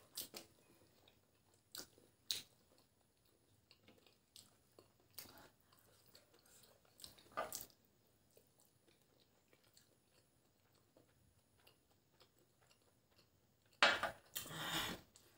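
Faint chewing and soft mouth sounds of people eating boiled eggs in gravy, with scattered small clicks. A louder spell of mouth noise comes near the end.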